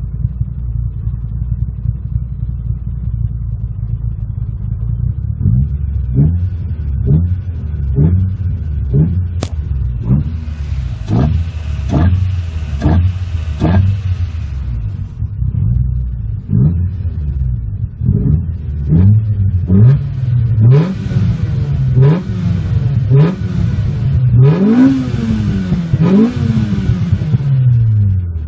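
Nissan March K12's CR12DE four-cylinder, bored and stroked to 1386 cc, idling and then blipped repeatedly, rising and falling quickly in pitch about once or twice a second. It is revved higher and longer near the end. Its builder says the fuel mapping is still far from finished.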